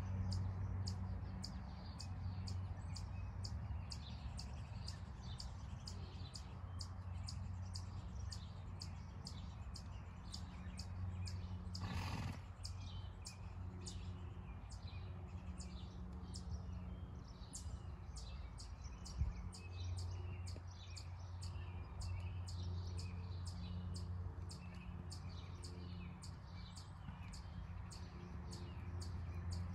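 Outdoor ambience: a bird gives a short high chirp about twice a second, steadily, over a low continuous rumble. There is a brief noisy swell about twelve seconds in.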